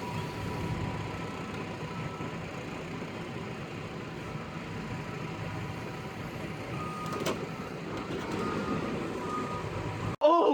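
Steady vehicle and traffic noise, a low rumble with hiss, with faint thin beeps around it. Near the end a louder wavering electronic tone cuts in.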